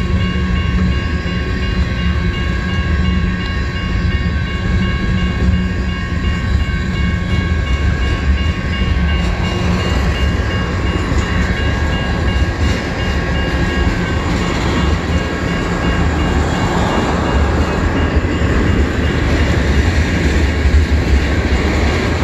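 Freight cars of a mixed freight train rolling past a grade crossing: a steady loud rumble and clatter of steel wheels on the rails, with a repeating ring from the crossing signal's bell.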